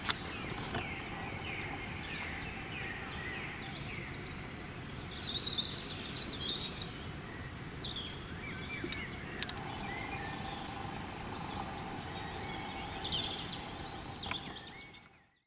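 Songbirds singing and chirping over a steady low outdoor rumble, with the loudest bursts of song about five to seven seconds in and again near the end; the sound fades out just before the end.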